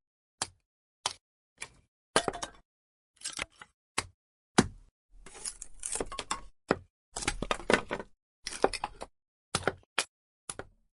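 Burning firewood crackling, with irregular sharp pops coming singly and in quick clusters, the densest runs about two seconds in and from about five to eight seconds in.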